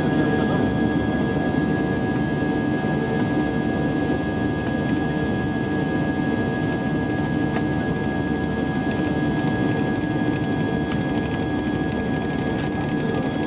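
Cabin noise of an Airbus A320-232 with its IAE V2500 jet engines running at power: a steady rumble with several constant whining tones on top.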